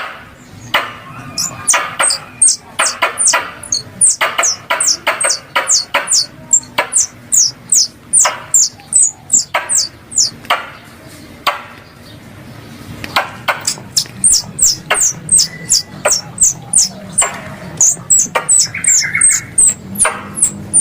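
Squirrel lure call: a rapid series of sharp, high chirps, each falling in pitch, about three a second, broken by a short pause about halfway through.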